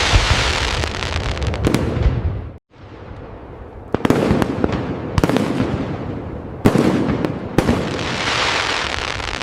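Fireworks exploding: dense crackling with sharp bangs every second or so. The sound cuts out briefly after two and a half seconds, then resumes.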